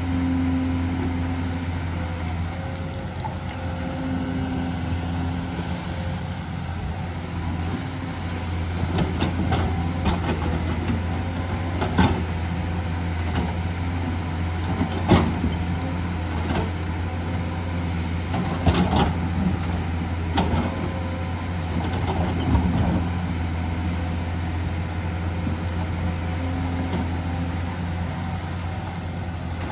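Hyundai excavator's diesel engine running steadily under work, with a series of sharp knocks and scrapes through the middle of the stretch. The loudest knock comes about halfway through.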